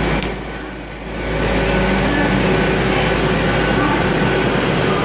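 Passenger train passing through the station at speed, a loud, steady rush of engine and wheel-on-rail noise that dips briefly about half a second in, then builds again.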